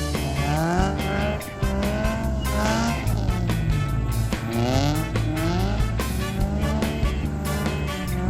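Small four-cylinder car engine revving hard, its pitch climbing and dropping again and again as it is driven through a tight motorkhana course, with some tyre squeal, under background music with a steady beat.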